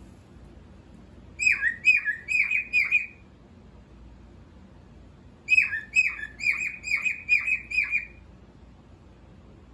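Cockatiel chirping in two bursts of quick, repeated falling notes: about five notes starting a second and a half in, then a longer run of about eight starting about halfway through.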